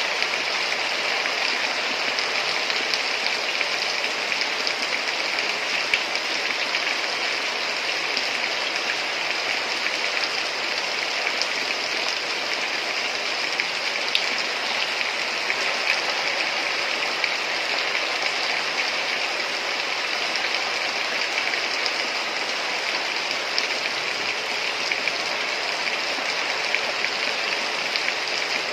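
Steady heavy rainfall, a dense even hiss of rain with scattered drop ticks.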